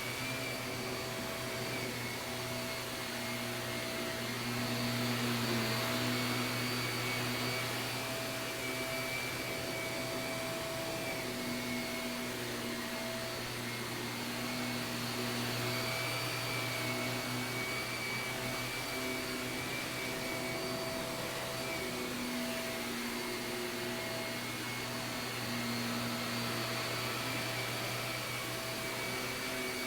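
Shark vacuum cleaner running steadily, a motor hum and whine over an even rush of air, its loudness swelling and easing a little every several seconds.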